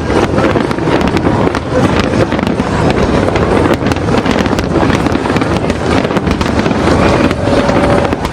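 Fireworks display going off continuously: a dense run of sharp bangs and crackles, one on top of another.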